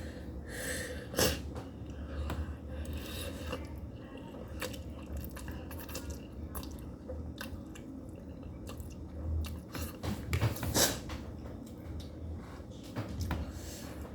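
A person eating spicy instant noodles, chewing with many small wet clicks and smacks.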